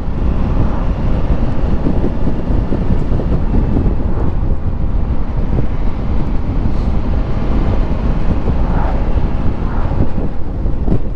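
A Honda Africa Twin's parallel-twin engine and road noise under way, with steady wind noise on the rider's microphone.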